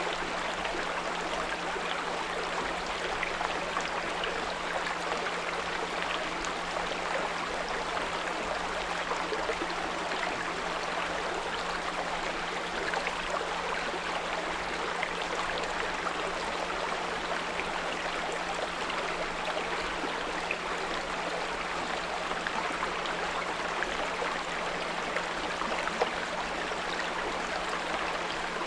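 A small brook flowing with a steady rush and trickle of water, with a constant low 174 Hz pure tone mixed in underneath.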